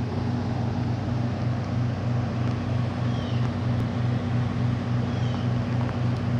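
Heavy engine idling: a steady low hum with a regular throb, several times a second.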